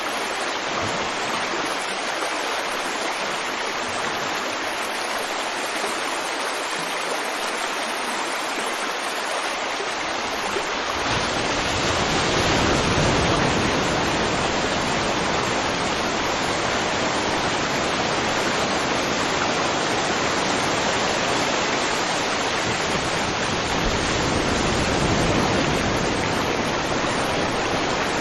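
River water flowing over rocks in a steady rush. About eleven seconds in, the flow turns fuller and deeper, with more low rumble, and stays that way.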